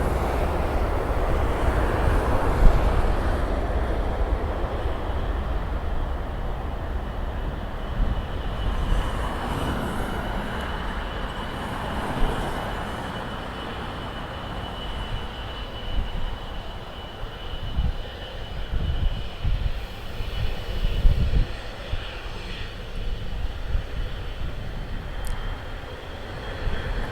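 Jet airliner engines running: a broad rushing noise that slowly fades over the first half, with a thin steady high whine throughout. Irregular low rumbles of wind on the microphone come in during the second half.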